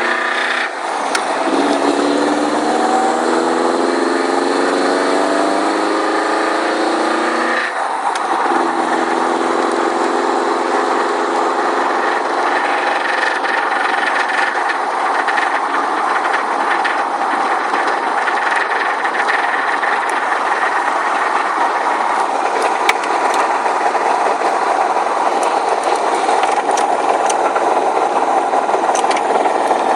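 Subaru WRX's turbocharged flat-four engine pulling under way, rising in pitch through a gear, with a shift near eight seconds in, then running at a steady speed. The engine has a rod knock: a worn connecting-rod bearing.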